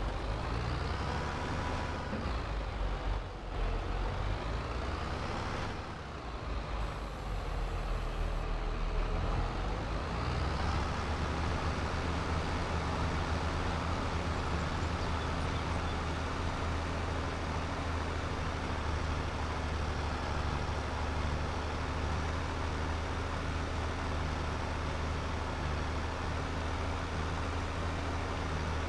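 Tractor engine running, its sound shifting and wavering for the first ten seconds or so, then settling into a steady low drone.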